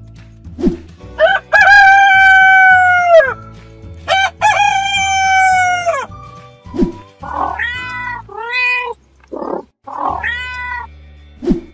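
A rooster crowing twice in long calls that drop in pitch at the end, then a cat meowing several times, over background music with a low bass line.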